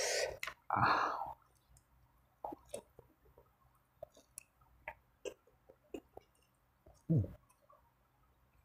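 Close-up eating sounds: wet chewing clicks and smacks of a mouth working on instant noodles and fried chicken, with a louder noisy mouth sound near the start and another about seven seconds in.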